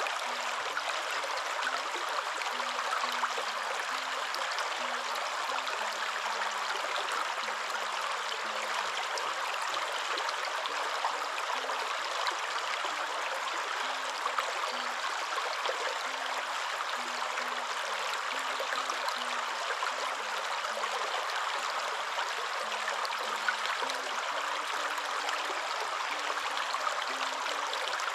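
Waterfall: steady, unbroken rushing of falling water, an even hiss with no changes.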